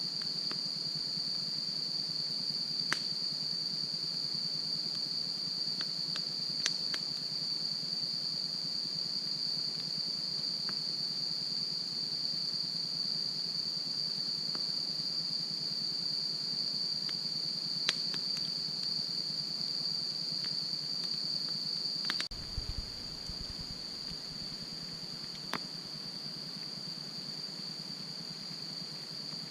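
Wood campfire burning, with scattered sharp crackles and pops over a steady high-pitched insect trill, likely crickets. There is one knock about two-thirds of the way in, after which a low rumble comes in.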